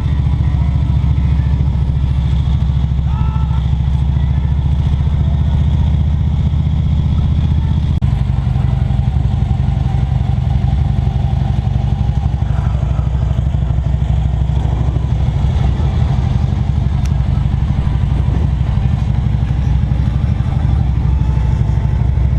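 Motorcycle engine running steadily while riding along the road, with a shift in the engine note about 8 seconds in, as from a gear or speed change.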